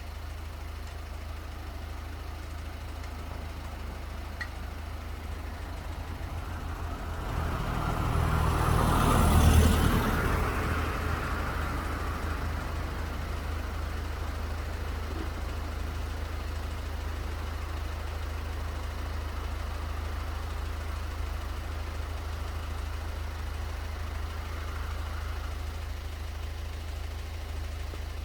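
A steady low rumble, with a vehicle passing by that swells to a peak about nine seconds in and then fades.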